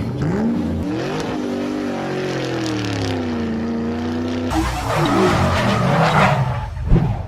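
A car engine revving, its pitch climbing over the first second, then holding and sagging slowly. About four and a half seconds in it gives way to a harsher, noisier stretch, with a short loud hit near the end.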